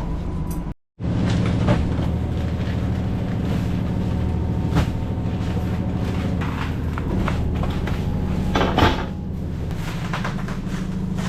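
A boat's engine running with a steady low drone, with several sharp knocks and clatters of doors or gear on board over it. The sound breaks off briefly about a second in.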